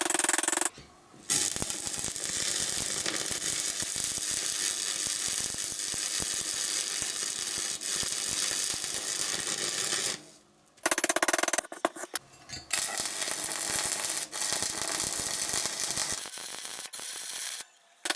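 Stick (arc) welding on steel tube, the arc crackling and sizzling steadily. It breaks off about ten seconds in and starts again, more unevenly.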